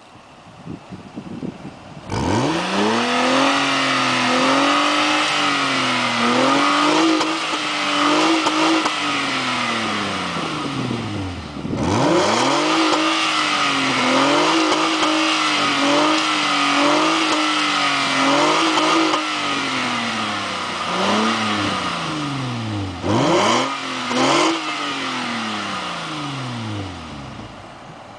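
1996 Nissan Maxima's 3.0 V6 revved through a Greddy SP2 cat-back exhaust: the revs climb steeply and are held high for several seconds, drop back, are run up and held again, then two quick blips before settling back to idle.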